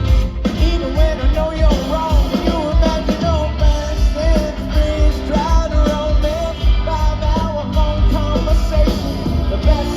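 Live rock band playing: a steady drum and bass beat under a bending lead melody line.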